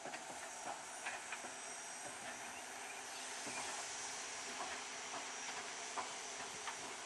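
Steady high steam hiss from a standing steam locomotive, with scattered faint clicks.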